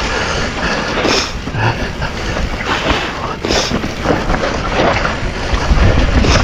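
Mountain bike riding over a rocky trail: wind rushing over the action camera's microphone and tyres rolling on dirt and rock, with the bike rattling and knocking sharply several times as it hits rocks.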